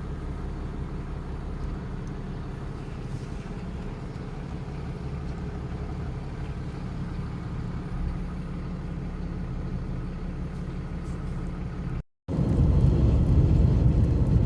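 Diesel semi truck engine idling steadily, a low even hum. About twelve seconds in, the sound drops out briefly and comes back as louder, rougher engine noise.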